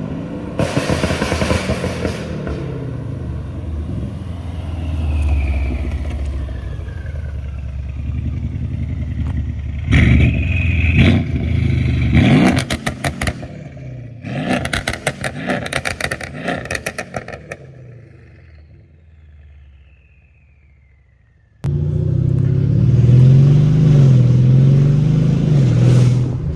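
Mercedes CLS550 twin-turbo V8 with aftermarket downpipes, heard through its exhaust as it revs up and passes, with a rapid run of crackles and pops on the overrun. The sound fades to quiet, then cuts in abruptly to the engine running loud with its pitch rising and falling.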